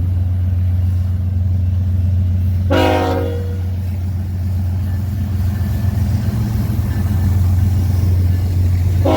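BNSF diesel freight locomotives running with a steady low rumble, sounding a short horn blast about three seconds in and starting another blast at the very end.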